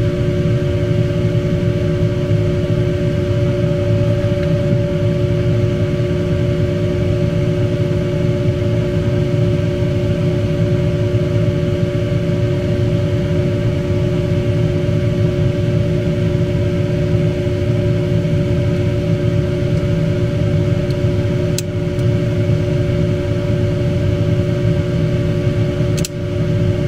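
Steady machine hum with two constant tones over a low rumble, unchanged throughout; two short clicks near the end.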